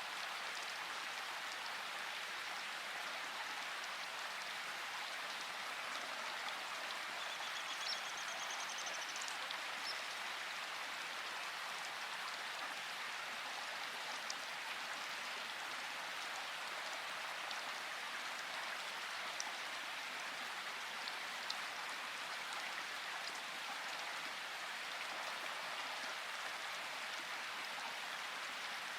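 Steady rain falling, a continuous even hiss with a few light drop clicks. A brief faint high trill comes about eight seconds in.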